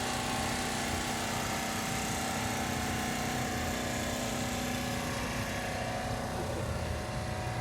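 A steady mechanical drone, like a motor running at a constant speed, with a few held tones in it and no change in pitch or level.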